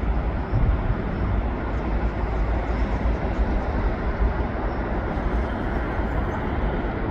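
Steady rumble and hiss of a freight train running away from the listener just after its last car has gone by.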